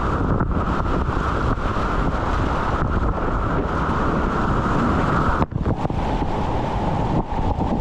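Rushing whitewater, with wind buffeting the microphone, loud and unbroken. About five and a half seconds in it dips briefly, then continues duller.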